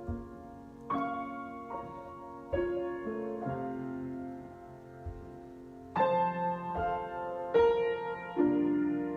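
Piano improvisation: slow chords struck one after another, each left to ring and fade before the next, with a louder group of chords in the second half.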